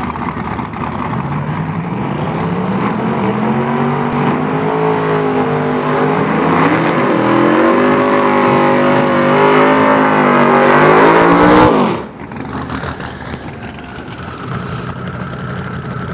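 Drag-racing Fox-body Mustangs, one a twin-turbo small-block Chevy and one on nitrous, at full throttle down the strip. The engine note climbs steadily and louder, dips briefly once about halfway, then cuts off abruptly near the end as the throttle is lifted, leaving a quieter engine sound.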